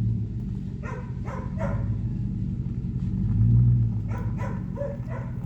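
A car engine idling with a steady low rumble that swells briefly twice, while a dog barks in two quick runs of three or four barks each, about a second in and again about four seconds in.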